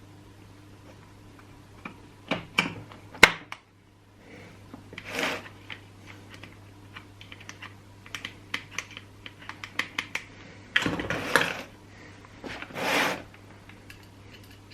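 Clicks, knocks and short scrapes of chainsaw parts and hand tools being handled, with the loudest knock about three seconds in and longer rubbing or scraping sounds around five, eleven and thirteen seconds. A steady low hum runs underneath.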